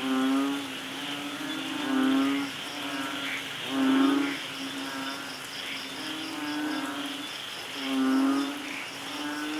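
Frog croaking: low, pitched calls of about half a second, repeated roughly every two seconds. Behind them run a rapid, even insect chirping and a steady rain hiss.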